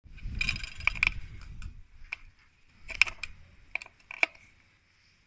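Irregular sharp clicks and light clatter of something being handled, about half a dozen clicks in all, dying away near the end.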